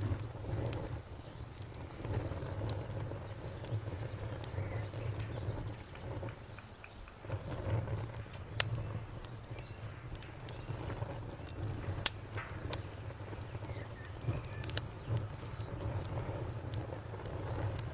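Wood fire crackling, with scattered small snaps and a few sharper pops, over crickets chirping steadily in the background.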